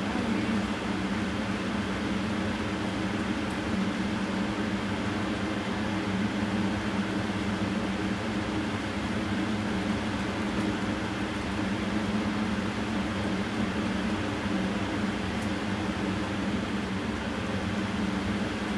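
Steady mechanical hum of a running motor, an even low drone with hiss that does not change.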